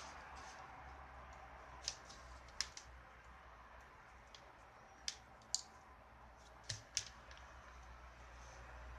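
Faint small clicks and ticks, about six of them at uneven intervals, over a low steady hum.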